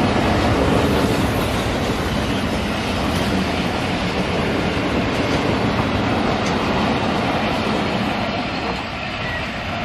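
Passenger coaches of a Pakistan Railways express train passing close at speed: a loud, steady rush of wheels on the rails, easing off slightly near the end.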